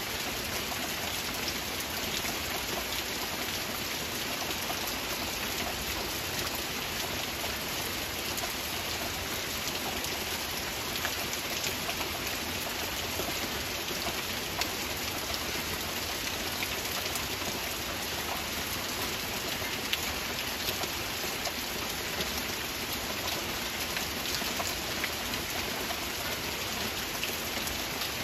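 Steady rain falling: an even, unbroken patter with many individual drops ticking through it.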